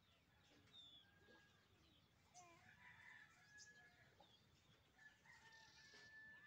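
Near silence with faint bird calls: scattered short chirps and whistles, and one longer held whistle near the end.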